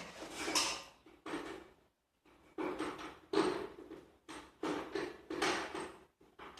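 A series of irregular knocks and clunks with short gaps between them, about a dozen in all, pausing briefly about two seconds in.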